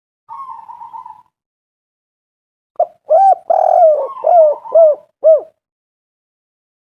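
Spotted dove (tekukur) calling: a soft, purring trill, then a louder series of about six hooting coos, each note rising and falling in pitch, from about three seconds in to halfway through.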